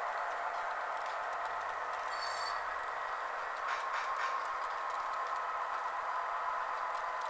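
Model train running with its digital sound decoders playing through small onboard speakers: a steady mechanical train rumble from the lead locomotives and the caboose's soundcar, with a few brief high metallic clinks.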